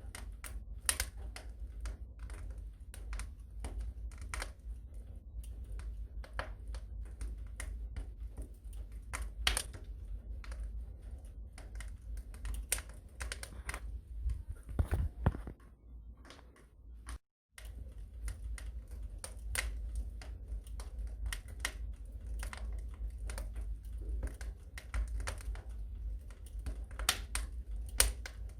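Wood fire crackling in a fireplace: irregular sharp pops and snaps over a steady low rumble of flames. The sound cuts out completely for a moment a little past halfway.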